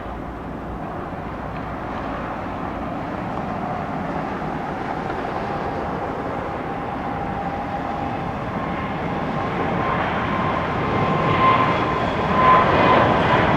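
Jet aircraft engines growing steadily louder, a rushing noise with a thin whine running through it that strengthens near the end.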